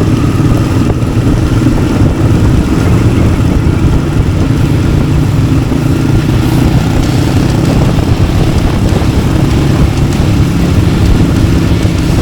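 Yamaha XT600's single-cylinder four-stroke engine running steadily through its aftermarket Arrow exhaust.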